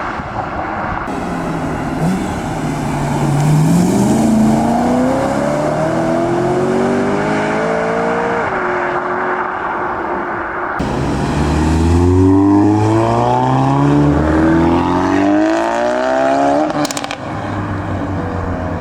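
Modified car engines accelerating hard away, the engine note climbing steadily in pitch as they rev up. A second pull starts suddenly about eleven seconds in and rises the same way.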